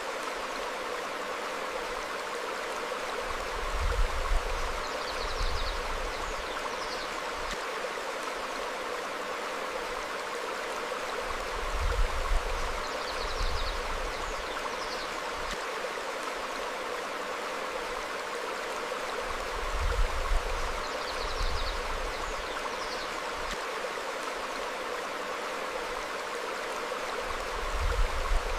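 Stream flowing over rocks, a steady rushing babble. A brief low rumble comes about every eight seconds, and faint, high, short bird chirps come in pairs at about the same spacing.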